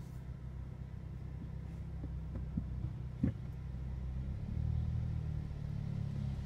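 Audi S3's engine running at low speed as the car creeps forward, heard from inside the cabin as a steady low rumble. A single short knock comes just over three seconds in, and about four and a half seconds in the engine note rises slightly and grows a little louder.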